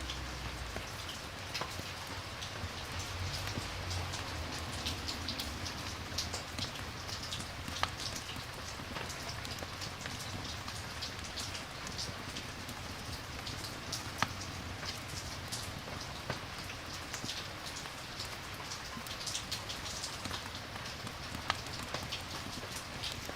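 Steady rain falling, with scattered sharp ticks and pops through it.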